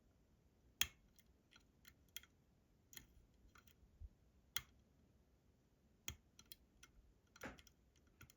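Faint, irregular clicks and ticks of a lock pick working the pins of a Robur 2391 lock cylinder under very light tension, a few clicks sharper than the rest.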